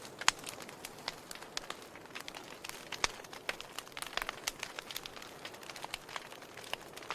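Wood fire burning in a fireplace, crackling with irregular sharp pops over a soft hiss, the loudest pop about a third of a second in.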